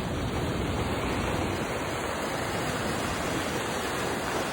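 Creek water rushing through a breached beach sand berm toward the ocean, a steady, even rush of fast-flowing water.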